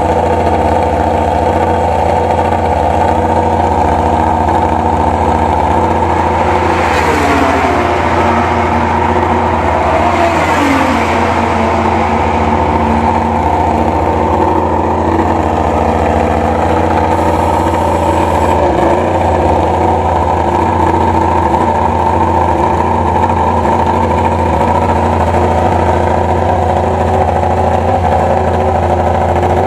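Yamaha YZR-M1 inline-four engine idling steadily. Two other machines pass about seven and ten seconds in, each with a brief rush of sound whose pitch drops as it goes by.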